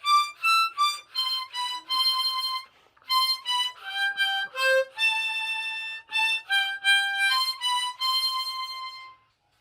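Solo harmonica playing a melody of single held notes, with a brief pause about three seconds in. The last note fades away shortly before the end.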